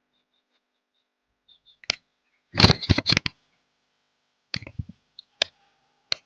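Handling noises: a few sharp clicks and knocks, with a louder cluster of knocking and rustling a little before the middle, and more single clicks near the end.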